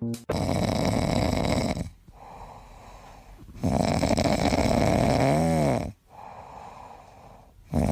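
A dog snoring, with long loud snores about every three and a half seconds and quieter breaths between. One snore ends in a brief whistling tone that rises and falls.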